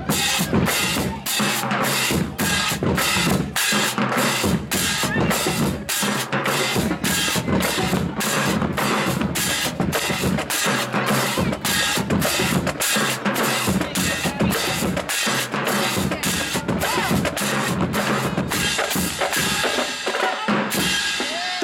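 Marching band drumline playing a fast, steady cadence: bass drums, snare drums and cymbals striking in a driving, even rhythm that breaks off near the end.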